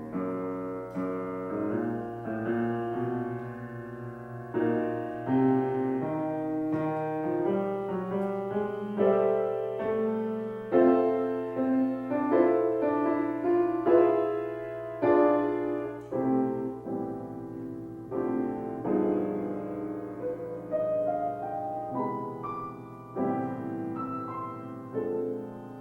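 Piano playing a passage of chords and melody notes, with a new chord struck about once a second and each note dying away after it is played.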